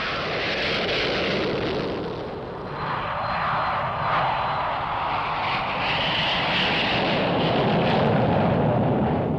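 BAC One-Eleven jet airliner's Rolls-Royce Spey turbofans at takeoff power, a loud, sustained jet roar with a high whine coming through about six seconds in.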